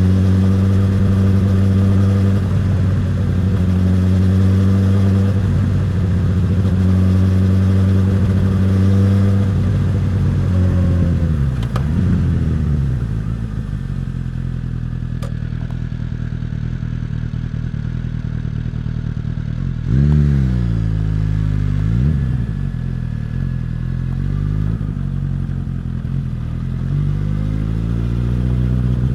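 Suzuki GSX-S1000's inline-four engine and exhaust on the move: a steady cruising note at first, the pitch falls as the bike slows about ten seconds in, and it runs low for a while. It rises and falls twice in quick succession around twenty seconds in, then climbs again as the bike accelerates near the end.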